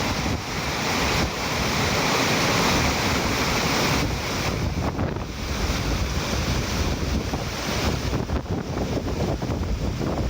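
Sea surf breaking and washing on the shore, loudest in the first few seconds, with gusty wind buffeting the phone's microphone.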